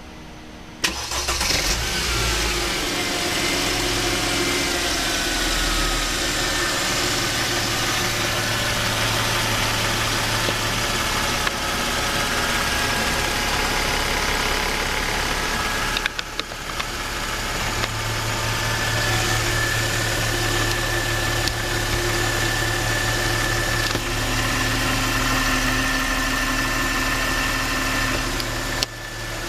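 Mercedes-Benz M272 V6 engine starting about a second in and idling, its speed settling down over the first few seconds. After a brief break about halfway, it idles steadily again.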